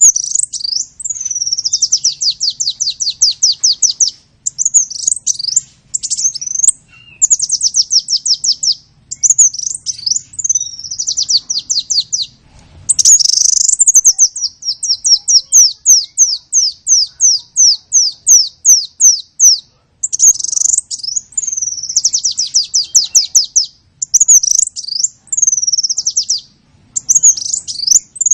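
A songbird singing loudly and close by, in long rapid trills of repeated high downward-sweeping notes, phrase after phrase with short pauses between.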